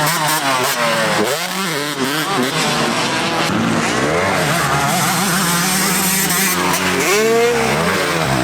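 Several motocross bikes racing, their engines overlapping and repeatedly revving up and falling back as they accelerate and brake.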